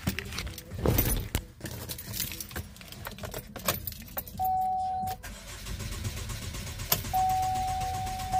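Keys jangling and small knocks and clicks around a car, then a steady electronic tone, once briefly about halfway through and again near the end.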